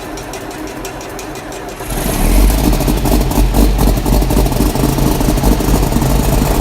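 Kubota M100X tractor's diesel engine running, rising sharply in level about two seconds in as it revs up and holds a steady, loud, clattery run.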